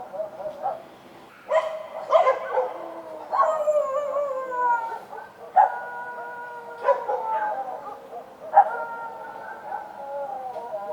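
Street dogs barking and howling: about six sharp barks, each trailing off into a long, drawn-out howl that slowly falls in pitch, with two howls overlapping in the middle.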